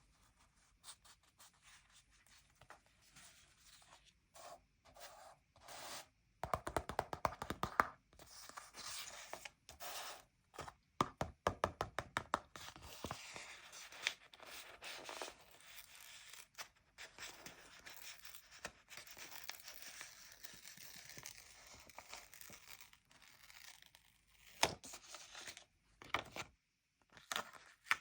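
Paper stickers being peeled off a sticker sheet and pressed onto a book page: crisp peeling and rubbing with scattered taps and scrapes, and two quick runs of ticking.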